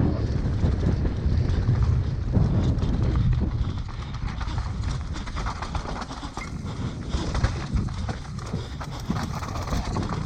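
Downhill mountain bike descending a rough trail: wind buffeting the microphone, heaviest in the first few seconds, over a rapid, irregular clatter of the tyres and bike over rocks and roots.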